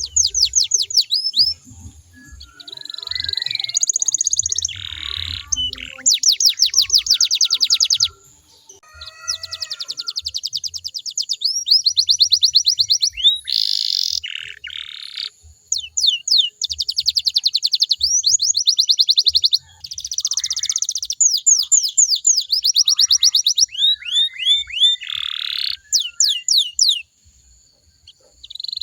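Domestic canary singing a long, varied song: fast trills and rolls of rapidly repeated notes alternating with runs of quick downward-sweeping notes. The song breaks off briefly about eight seconds in and again near the end.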